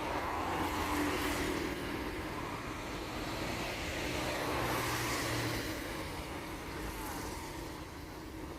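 Road traffic passing: a steady hiss of tyres and engines that swells as a few vehicles go by.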